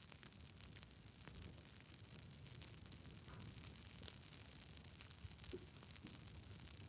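Campfire burning: faint, irregular crackles and small pops of burning wood over a low steady rumble.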